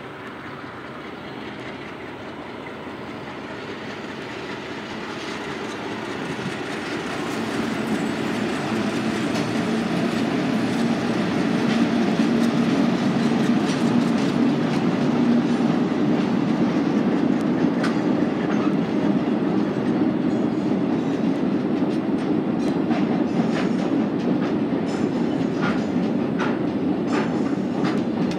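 Diesel locomotive hauling a train of wagons across a steel girder bridge: its engine drone grows steadily louder as it approaches and passes. After it, the wagons' wheels clatter over the rail joints in a run of sharp clicks and clunks.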